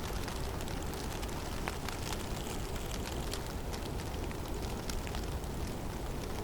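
Heavy snowstorm in a forest: a steady low rush of wind under a constant patter of tiny ticks from falling snow landing on surfaces.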